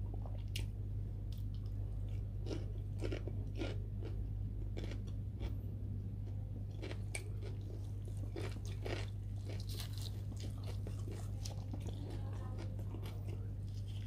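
Close-up chewing and biting of roasted chicken: irregular small crunches and wet mouth clicks over a steady low hum.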